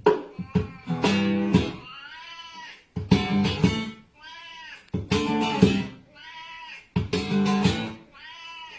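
Guitar strums alternating with a cat's meows, four times at about two-second intervals: a short burst of chords, then a rising-and-falling meow.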